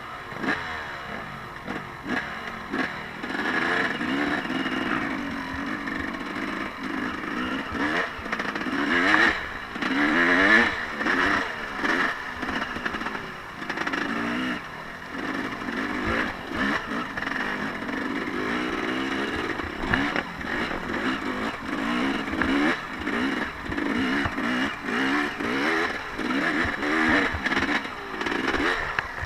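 Off-road vehicle engine revving up and down over and over as it is ridden, its pitch rising and falling every second or two, with scattered knocks and clatter.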